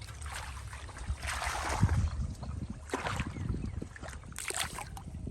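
Muddy paddy-field water sloshing and splashing as hands and legs move through it, in uneven surges, over a low rumble of wind on the microphone.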